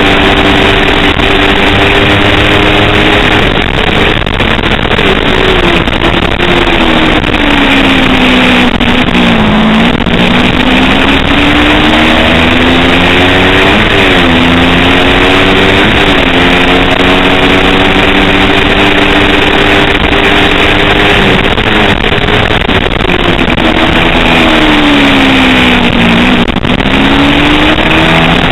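A Kawasaki Ninja 250 racing motorcycle's engine at high revs through corners. Its pitch slides down in two long slowdowns, about four seconds in and again past twenty seconds. In between it jumps up and down sharply as it shifts gears, over a heavy rush of wind and road noise.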